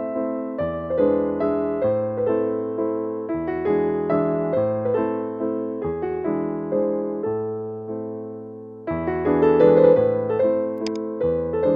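Background piano music: a gentle melody of struck notes over a bass line, with a new phrase starting about nine seconds in.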